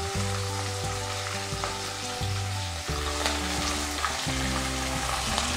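Chopped onions and green chillies sizzling in hot oil in a nonstick kadai just after going in, stirred with a spatula, over soft background music with a slow low melody.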